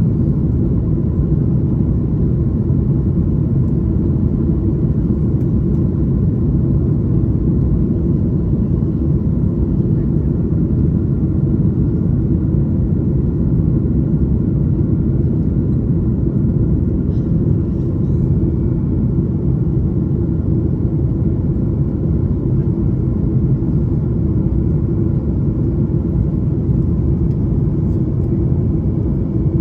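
Steady low rumble of an airliner's jet engines and airflow, heard from inside the cabin during the climb after takeoff, with faint steady engine tones above it.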